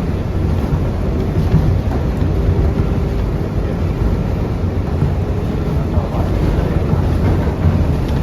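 Ride noise inside an R142A subway car running between stations: a loud, steady low rumble of wheels on rail and the car body. A faint humming tone comes through for a few seconds in the first half.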